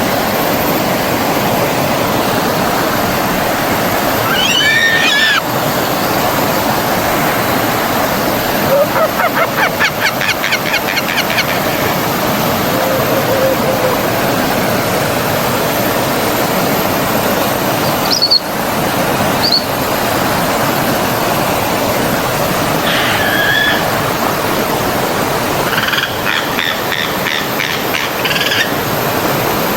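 Forest stream running steadily, with birds chirping over it several times, including a rapid run of notes and a few short calls.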